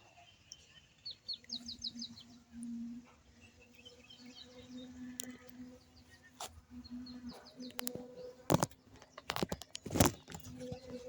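Small birds chirping in short quick series of high notes, over a faint steady low hum. From about eight seconds in, a run of loud knocks and scrapes close to the microphone.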